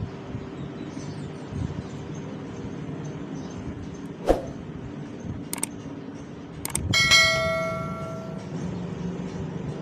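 A piece of metal is struck and rings with several clear tones that die away over about a second and a half. It comes after a few sharp clicks, over a steady low hum.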